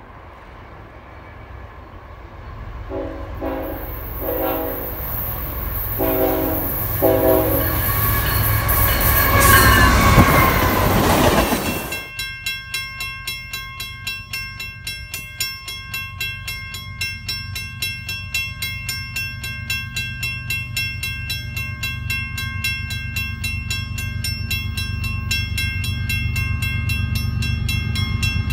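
Canadian National diesel freight locomotive sounding its multi-tone horn in four blasts as it approaches, then passing close and loud with the rush of engine and wheels. After a sudden cut, a second freight train rumbles in the distance under a steady ringing that pulses about two or three times a second.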